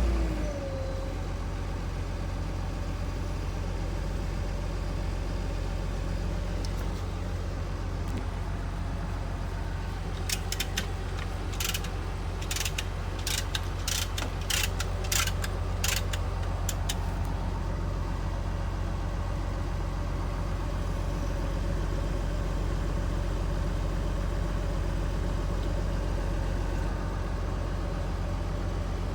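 Heavy equipment engine idling steadily. In the middle there is a quick run of about a dozen sharp clicks or taps.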